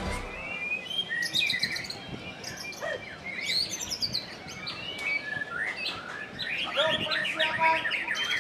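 White-rumped shama (murai batu) singing a fast, varied string of whistles, chirps and trills in its aggressive 'gerilya' mode. The song grows busier in the last couple of seconds.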